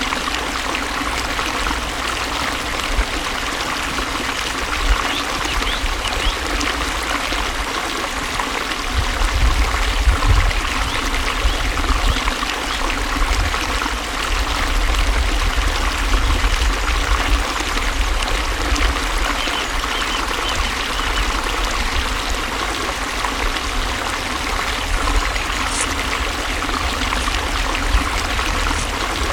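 Flowing water running steadily, an even rushing with a deeper rumble underneath that grows stronger about nine seconds in.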